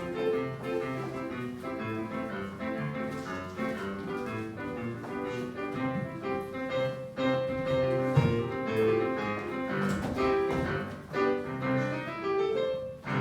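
Piano playing an improvised instrumental interlude, a continuous run of notes and chords.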